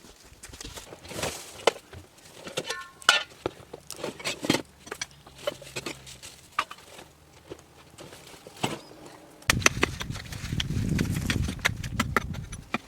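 Irregular sharp knocks and clatters, then from about two-thirds of the way through a louder, rough scraping rumble.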